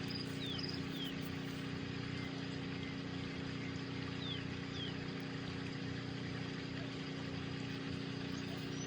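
Steady background hum with an even hiss, like a small fan or motor running, with a few faint short chirps.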